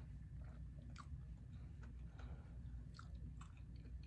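Chewing a mouthful of cauliflower-crust veggie pizza: soft, irregular mouth clicks and small crunches.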